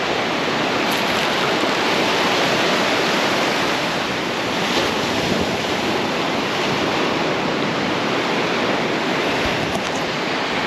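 Ocean surf washing onto a beach: a steady rushing noise.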